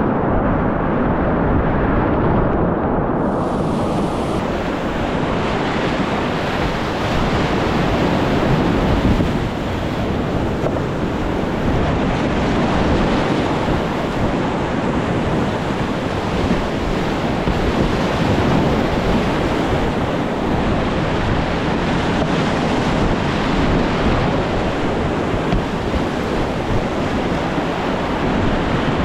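Loud, steady rush of whitewater rapids, with wind buffeting the microphone. The sound is dull for the first three seconds or so, then becomes brighter and fuller.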